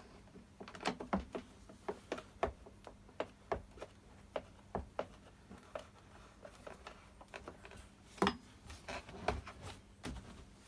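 Irregular clicks and light knocks of plastic casing parts and small hand tools being handled while a Stihl BR600 backpack blower is reassembled, with a low steady hum underneath.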